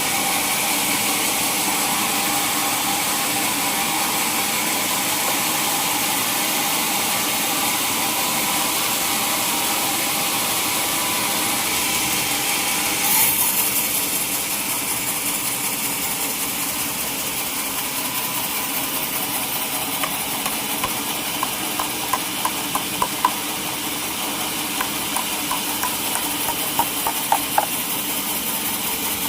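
Sawmill machinery running steadily, an engine-driven drone with a strong high hiss. About halfway through there is a brief louder burst, after which the sound settles slightly lower. Near the end comes a series of short sharp clicks.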